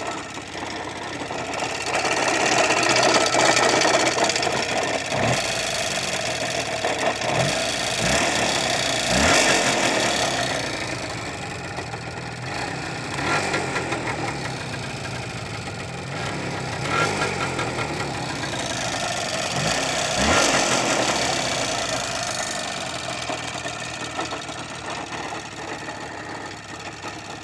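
IZh Jupiter 5 motorcycle's two-stroke twin engine running, blipped up in revs several times, with an extraneous noise that the owner cannot identify.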